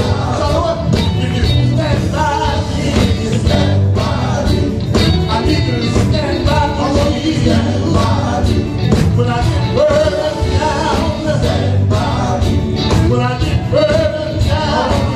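Gospel music: voices singing over a full band with a steady drum beat.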